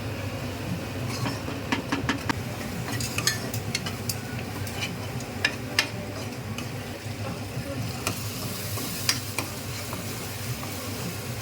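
A spoon stirring and mixing biryani in a cooking pot, with many sharp clinks against the pot over a steady sizzling hiss.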